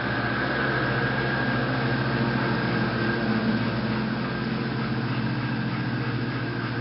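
International tractor engine running steadily while mowing with a 5-foot Woods mowing deck, an even, unbroken drone.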